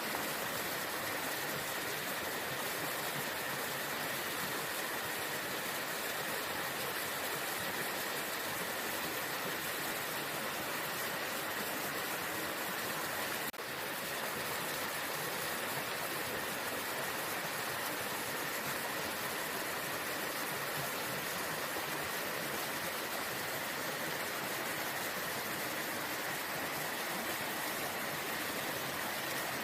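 Waterfall: steady rush of falling water, unbroken except for a momentary dip about halfway through.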